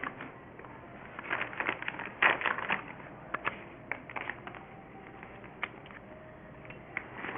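Snow crunching: a quick run of irregular crunches and scrapes over a couple of seconds, then a few scattered sharp crunches.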